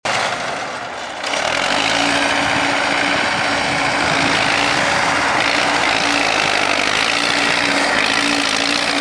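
Car engine running with a loud, steady hiss over it, which jumps up about a second in.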